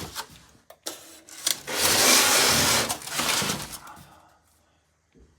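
A large model-railroad mountain being shoved and slid along a shelf, scraping in several rough bursts with a few knocks, the longest about two seconds in, then dying away near the end.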